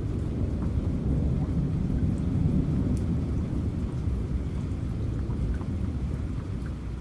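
Steady rain with a continuous low rumble of thunder, swelling a little about two to three seconds in, and scattered faint drop ticks over it.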